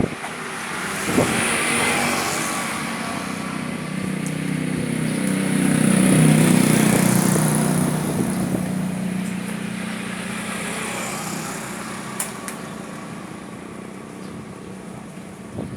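A motor vehicle passing by: its engine hum and road noise grow to their loudest about six seconds in, then slowly fade. A short sharp click sounds about a second in.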